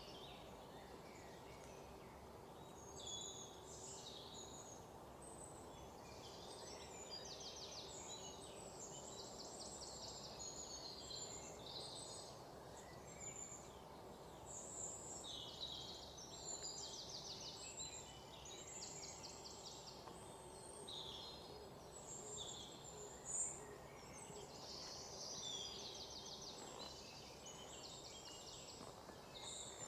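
Faint chorus of several small birds chirping and trilling in quick runs of notes, over a steady low background noise. One chirp stands out louder for a moment about two-thirds of the way through.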